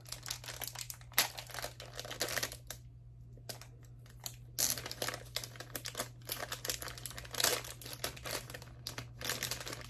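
Plastic and paper packaging crinkling as it is handled, in bouts with a short lull about three seconds in, over a steady low hum.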